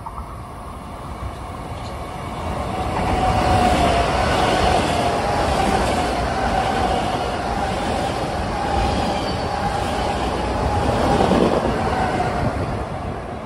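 Metro-North Harlem Line electric multiple-unit commuter train passing, with wheels clacking over rail joints and a steady tone over the rumble. It builds over the first few seconds, stays loud, and fades near the end.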